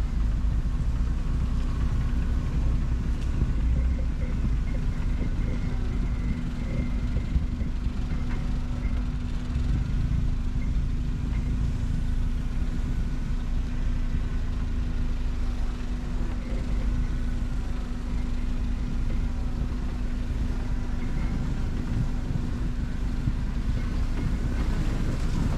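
T-Rex ATV engine running steadily on the move, a continuous low rumble with a steady drone.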